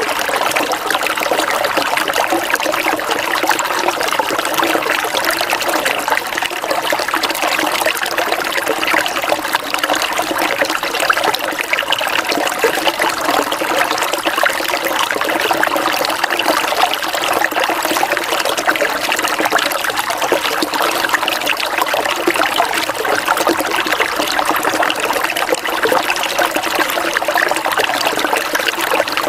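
Water trickling and splashing steadily, a dense even patter of small splashes.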